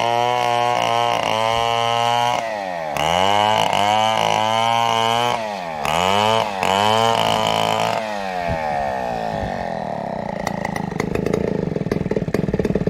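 Two-stroke chainsaw running at high revs while cutting a fallen coconut trunk. Its pitch dips and recovers twice, then falls away about eight seconds in into a rougher, rattling sound.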